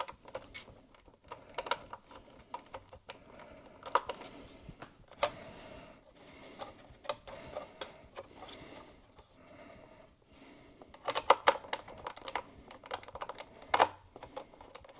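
Irregular light clicks and taps of small computer parts and connectors being handled and fitted inside an opened iMac, with a quick run of clicks about eleven seconds in.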